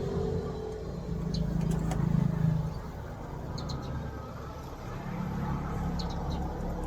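A vehicle engine running, its low hum swelling louder about two seconds in and again near the end, with a few short high chirps over it.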